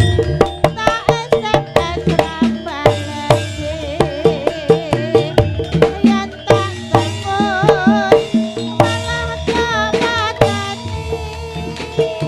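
Live Javanese gamelan music of a kuda lumping group. Hand-drum strokes run in a quick rhythm over sustained ringing tones, with a wavering melodic line on top.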